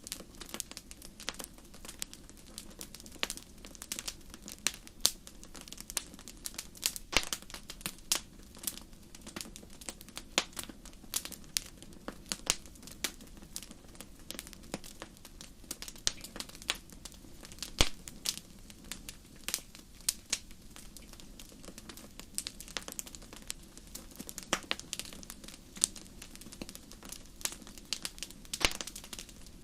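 Wood fire burning in a fireplace: frequent irregular crackles and sharp pops from the burning logs over a low steady rush of flame.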